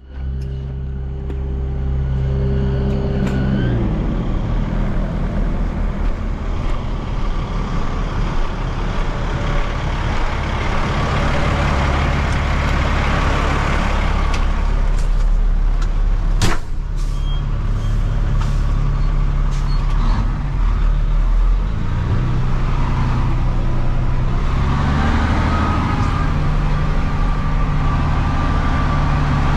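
Diesel engine of heavy construction equipment running steadily, its engine speed shifting several times as it works, with a single sharp click about halfway through.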